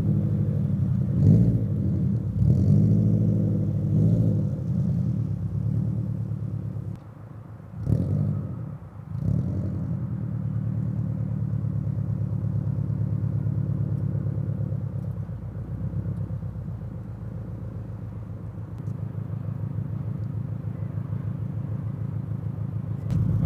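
Subaru BRZ's 2.4-litre flat-four running through unequal-length headers, a catless front pipe and a Greddy RS exhaust. The revs rise and fall several times in the first half, then settle into a steady low drone.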